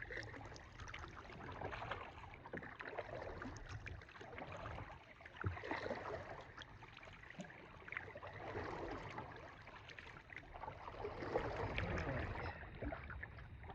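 Kayak paddle dipping and splashing in lake water, soft swells of water noise every few seconds as the strokes go in.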